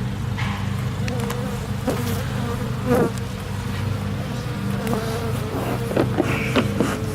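Honey bees buzzing around an open hive: a steady low hum from the mass of bees, with single bees passing close by in a wavering, rising and falling drone. A few sharp clicks and knocks come through, about three seconds in and again around six seconds.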